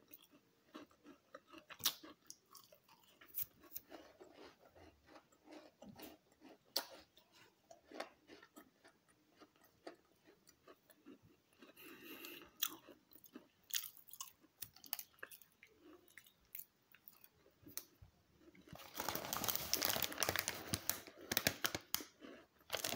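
A person chewing a crunchy chocolate chip cookie: faint, scattered crunching and small clicks. Near the end comes a few seconds of louder crinkling.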